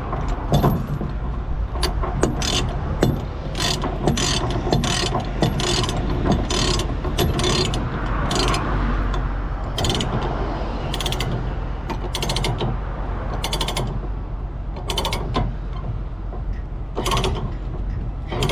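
Ratchet chain binder being cranked to tension a tie-down chain, clicking in short runs of rapid ratchet clicks, about one run a second at first and then more spaced out. A steady low engine hum runs underneath.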